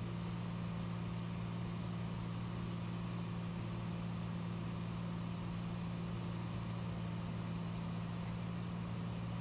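Steady in-flight cockpit drone of a light aircraft: a constant low engine hum with an even rushing noise underneath, unchanging throughout.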